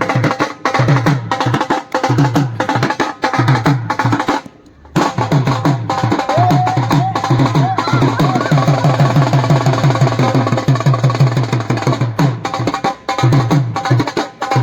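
A drum played by hand in quick, rhythmic strokes. The playing breaks off briefly about four and a half seconds in, then picks up again in a fast, even run of strokes.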